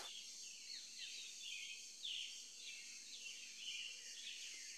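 Faint birdsong: a run of short, quickly falling chirps, several a second, over a steady high hiss.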